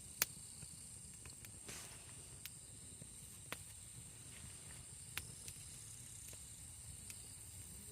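Wood campfire crackling: irregular sharp pops and snaps, the loudest about a quarter second in, over a faint steady hiss.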